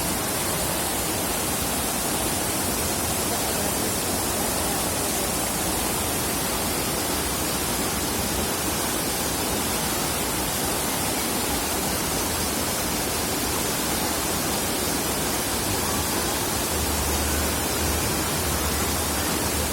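Waterfall rushing steadily: a dense, unbroken noise of falling water close to the microphone, with a brief low rumble near the end.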